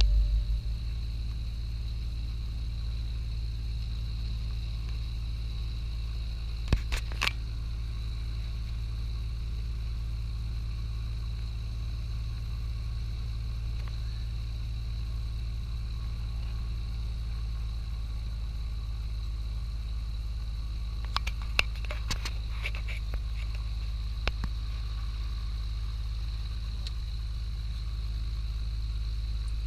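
Steady low engine drone of a light aircraft heard in the cabin, with a few short clicks about seven seconds in and again around twenty-one to twenty-four seconds.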